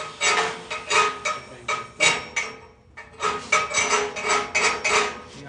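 Hammer striking steel: about a dozen quick, uneven blows, each with a short metallic ring, with a brief pause a little past halfway.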